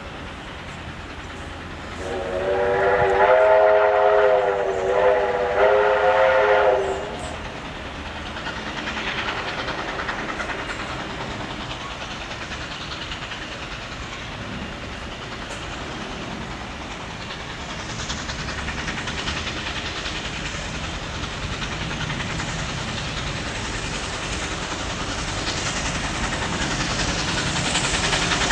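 Steam locomotive approaching: its whistle sounds loudly for about five seconds with a brief dip in the middle, then the train's running noise builds steadily as it draws nearer.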